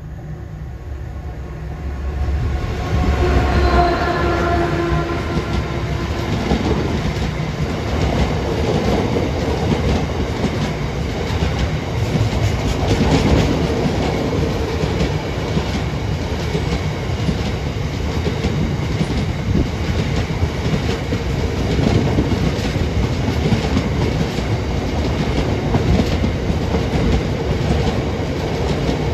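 Freight train of loaded Drax biomass hopper wagons passing close by. It grows louder over the first few seconds as the head of the train comes by, with a brief pitched whine, then settles into a steady rumble with the clickety-clack of wagon wheels over the rail joints.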